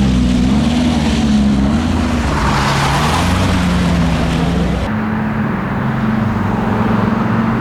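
Lamborghini supercar engine running loud with its pitch rising and falling as it pulls away; about five seconds in the sound changes abruptly to a steadier engine note, as at a cut to another car.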